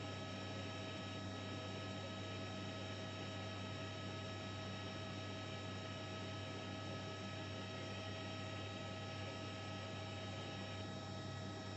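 Steady electrical hum with a few faint, unchanging whining tones over a light hiss, typical of interference picked up on a dash camera's audio.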